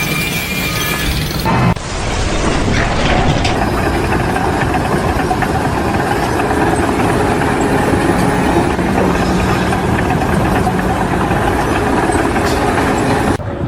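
A large engine running steadily, likely construction machinery, with an abrupt change in the sound about two seconds in.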